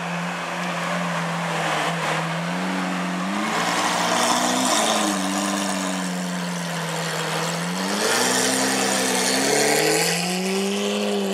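Lamborghini Aventador LP700-4's V12 through a Capristo exhaust, its engine note rising and falling several times as the revs climb and drop.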